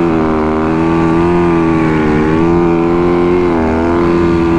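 Dirt bike engine held at high revs at a fairly steady throttle, its pitch wavering slightly with small dips.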